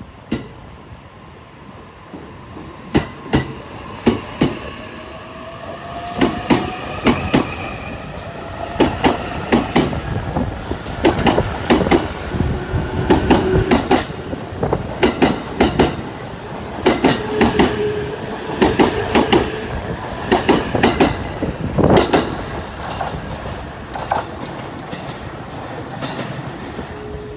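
JR East E657 series electric limited express pulling out of a station and passing close by, its wheels clacking in pairs over the rail joints, coming faster as it picks up speed, with a motor whine rising in pitch. The clacking fades off near the end as the train draws away.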